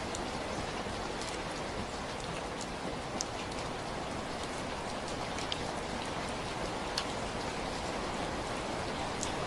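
Steady rainfall: an even hiss of rain on surfaces, with scattered sharp ticks of individual drops landing close by.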